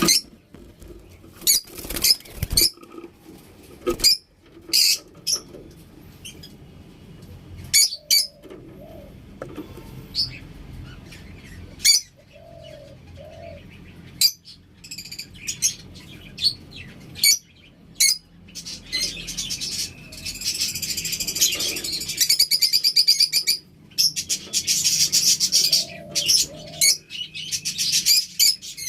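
Lovebirds calling: short, sharp, shrill chirps scattered every second or two, then, about two-thirds of the way in, a long run of fast, continuous chattering.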